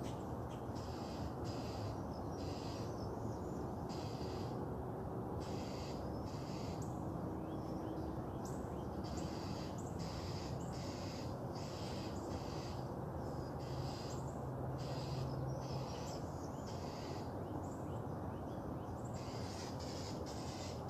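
Outdoor dawn ambience: a bird calling over and over in short, high, repeated calls above a steady low background hum.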